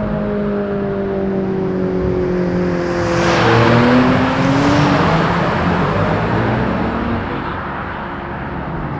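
Modified car exhausts: engine notes sliding slowly down in pitch, then a car accelerating past about three seconds in, loudest around four seconds, its exhaust note rising.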